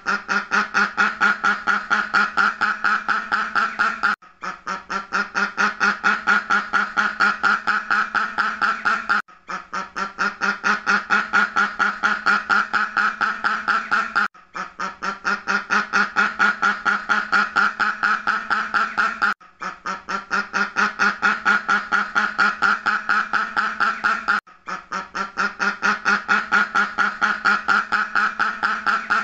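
Duck quacking in a fast, unbroken run of about five quacks a second. The run comes in stretches of about five seconds with a short break between them: one recording looped over and over.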